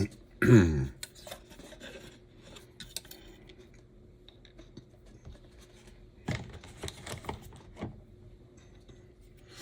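Small tools and tiny HO slot car parts clicking, scraping and rubbing on a workbench. The loudest sound is a short squeak falling in pitch about half a second in, and there is a run of scraping and rubbing about six to eight seconds in.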